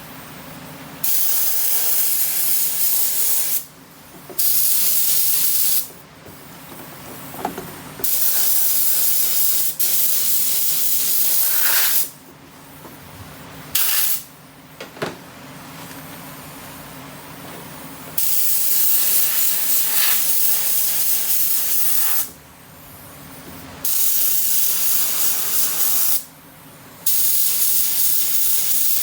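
Air spray gun spraying base coat paint onto an engine in repeated trigger pulls. About seven bursts of hiss, most lasting two to four seconds, stop and start with short pauses between passes.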